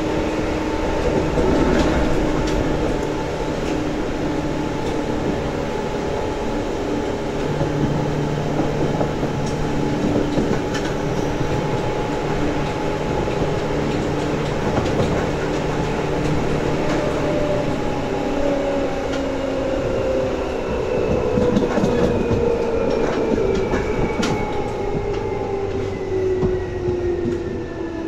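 Seibu 2000 series electric train running, heard from inside the car: steady motor tones and wheel noise with scattered rail clicks. From about two-thirds of the way in, the motor whine falls steadily in pitch as the train slows.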